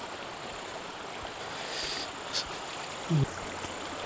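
Creek water running steadily, a continuous rushing hiss, with a brief low voice sound about three seconds in.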